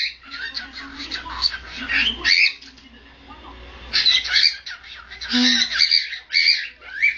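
Pet parrots, a cockatiel and a sun conure, squawking and calling shrilly in repeated bursts, with a lull of about a second and a half near the middle.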